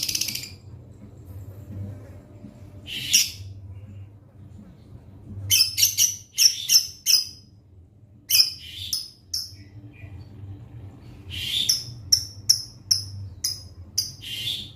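Lovebird calling in sharp, high-pitched chirps. It gives single calls at first, then quick runs of several chirps in a row.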